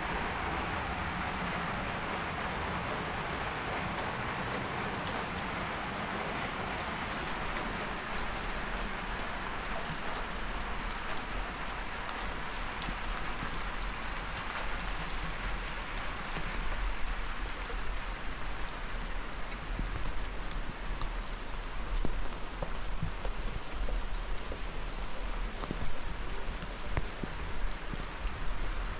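Steady rain falling, with individual drops hitting a surface as sharp ticks that grow louder and more frequent through the second half.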